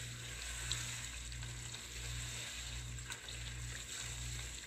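Chicken pieces frying in ghee with tomato-onion masala in a karahi: a steady sizzle, with a wooden spoon stirring through it and a couple of light clicks against the pan.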